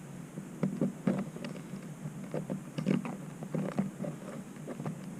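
A few short, irregular clicks and knocks over a low steady hum, from hand work on parts and tools.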